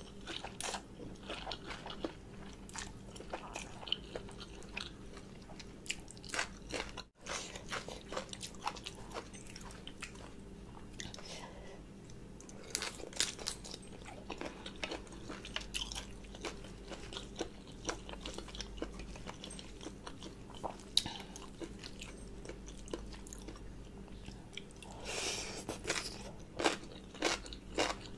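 Close-miked wet chewing and crunching of spicy green papaya salad with rice noodles, with many irregular crisp clicks and smacks of the mouth. There is a longer breathy hiss near the end.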